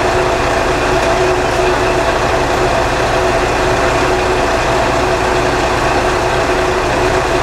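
KiHa 20 diesel railcar's engine running steadily, heard from the cab, a constant drone with a few held tones.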